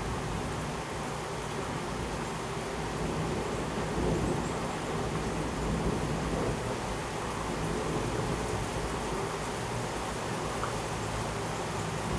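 Heavy rain pouring steadily during a thunderstorm, with low rolling thunder that swells about four and six seconds in.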